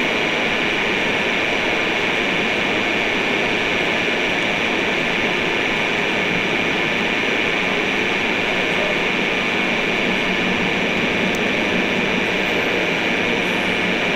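A train running steadily, heard from inside the driver's cab: an even, constant running noise with no distinct clicks or changes.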